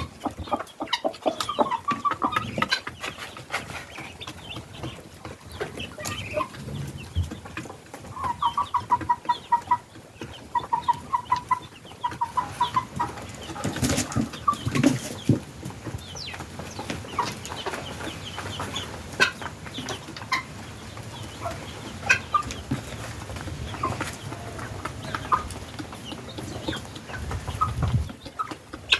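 A flock of guinea fowl and chickens calling and clucking, with a run of rapid repeated calls about eight to thirteen seconds in.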